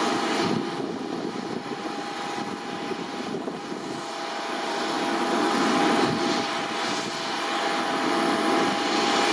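Jet airliner on the apron running its engines, a steady rushing noise with a thin high whine that swells slightly about halfway through.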